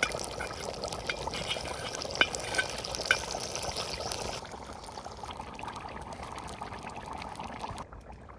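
Liquid pouring in a steady stream that starts suddenly and stops shortly before the end, with a few sharp clicks a couple of seconds in.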